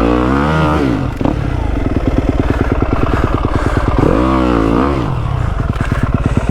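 Yamaha WR250F's 250 cc single-cylinder four-stroke engine revving up and falling back twice, once near the start and again about four seconds in, and running steadily in between. The bike is stuck, its rear wheel digging a hole in the snow.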